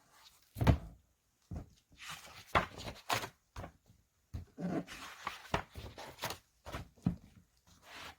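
A series of irregular knocks and thunks, a dozen or so short hits spread unevenly, the loudest a low thud a little under a second in.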